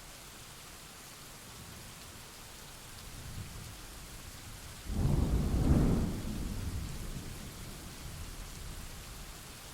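Steady rain falling with a thunderclap: a low rumble builds about three seconds in, breaks into a sudden loud crack about five seconds in, then rolls away over the next few seconds.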